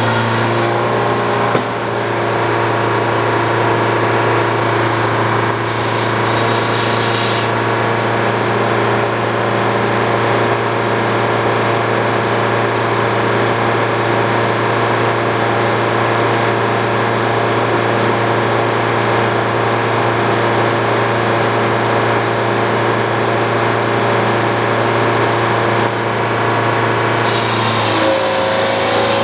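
Old Frick sawmill rig running steadily, its engine and drive making an even mechanical drone. The sound shifts briefly about six seconds in, and its pitch changes near the end.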